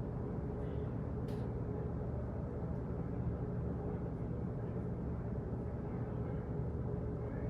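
Office background noise: a steady low rumble with a faint hum, and a single light click about a second in.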